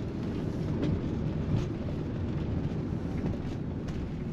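Steady low engine and road rumble of a motorhome driving along, heard from inside the cab.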